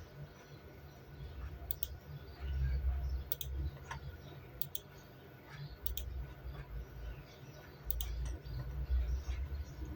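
Scattered sharp clicks, a second or more apart, over an uneven low rumble that swells twice.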